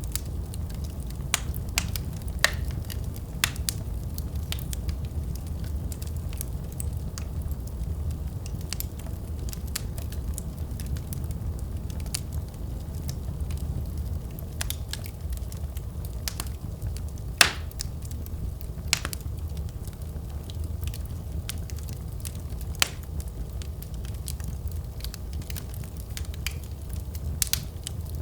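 Wood fire burning in a fireplace: a steady low rumble of flames with scattered sharp crackles and pops, the loudest pop about seventeen seconds in.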